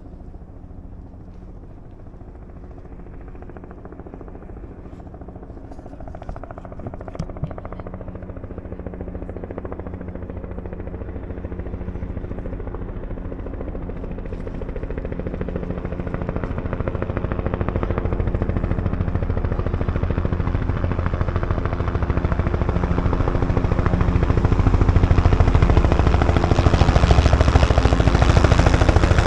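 Helicopter turbine and rotor blades with a fast rhythmic chop, growing steadily louder throughout.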